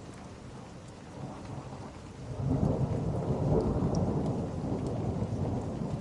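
Rolling thunder: a low rumble swells in about two seconds in and keeps rolling, over a steady hiss of rain.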